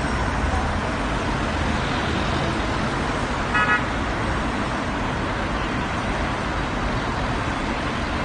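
Steady road traffic noise, cars passing in a continuous wash, with one short car horn toot about three and a half seconds in.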